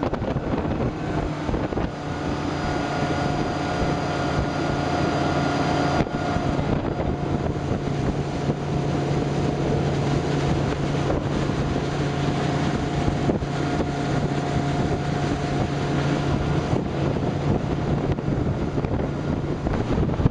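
Rigid inflatable boat's engine running steadily under way, a constant hum, with wind buffeting the microphone.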